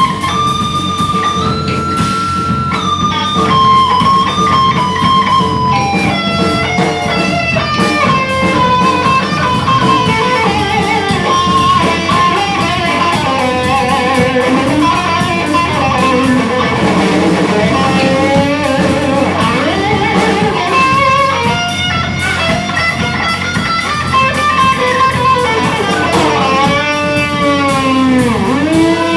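Live rock band with an electric guitar playing a lead line of held notes that slide between pitches, over bass and a full band sound. Near the end the guitar sweeps sharply down in pitch and back up.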